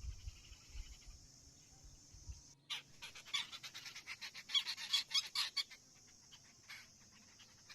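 Common myna giving a burst of harsh, rapid chattering calls that starts abruptly about two and a half seconds in and dies away near the six-second mark, over a steady high hiss. Before the calls there are only low rumbles under the hiss.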